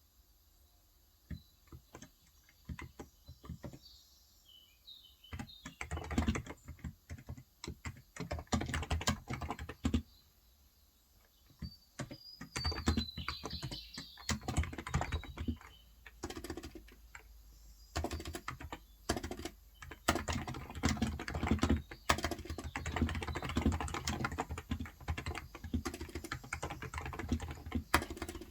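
Typing on a Cox Endeavour electro-capacitive (non-contact) 35 g tenkeyless keyboard: scattered keystrokes at first, then quick bursts of typing from about six seconds in, broken by short pauses.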